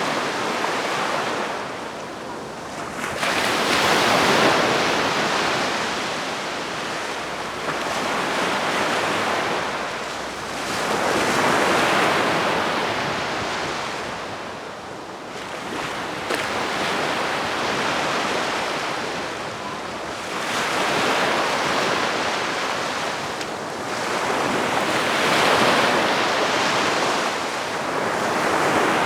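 Calm sea waves breaking gently and washing onto the shore. Each wave swells and fades again about every four to five seconds.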